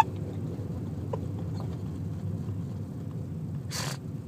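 Car cabin noise: a steady low rumble of engine and road heard from inside the car, with a short breathy hiss near the end.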